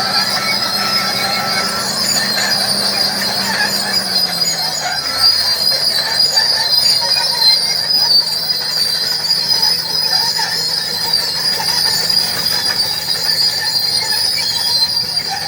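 Caterpillar D8R bulldozer's diesel engine running, its tone dropping lower about four seconds in as the revs come down, under a steady high-pitched whine.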